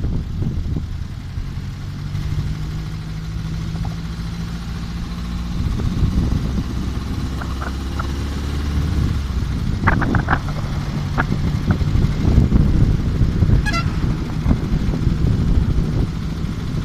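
Air-cooled Volkswagen Beetle flat-four engine running as the car drives along. The engine note rises for a few seconds near the middle, and a few sharp clicks come about ten seconds in.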